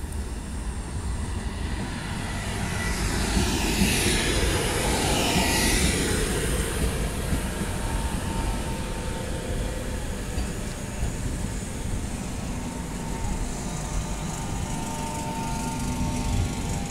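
An electric InterCity 225 express (Mark 4 coaches) rolls into the platform. Its rumble and rushing noise swell to a peak a few seconds in as the front passes, then it settles into a steadier rumble with a thin high whine as the coaches slow towards a stop.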